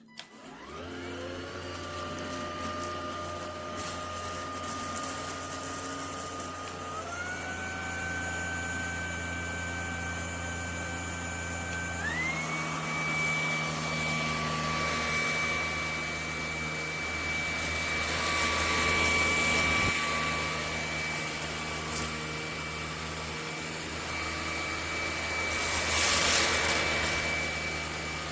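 ElecKeys K10 cordless stick vacuum switching on and spinning up to a steady motor whine, then stepping up in pitch twice, a quarter and almost halfway through, as it moves to higher suction modes. Near the end comes a brief louder rush of air.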